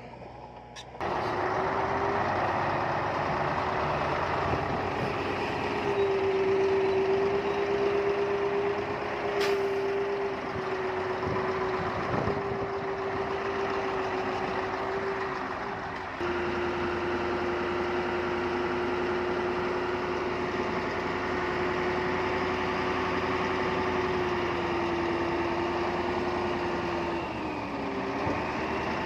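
Heavy diesel earthmoving machinery running hard, with a strong steady whine over the engine. The whine sags in pitch and recovers near the end.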